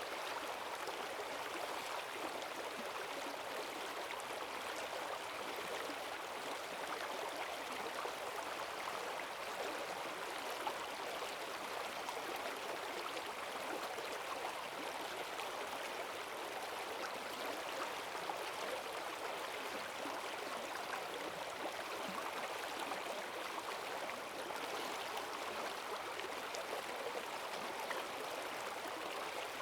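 Forest stream running high with rain water: a steady rush of fast-flowing water, splashing and gurgling over rocks.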